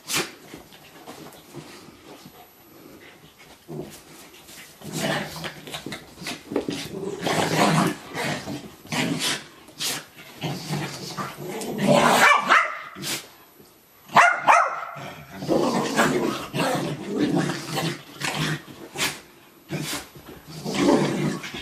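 Two dogs play-fighting, growling and barking. Fairly quiet for the first few seconds, then busy from about five seconds in, with a few sharp barks near the middle.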